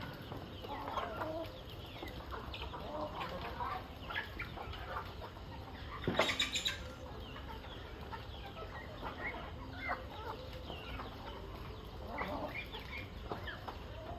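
A flock of chickens clucking with many short, overlapping calls, as poultry gather at feeding time. About six seconds in there is one louder burst, lasting under a second.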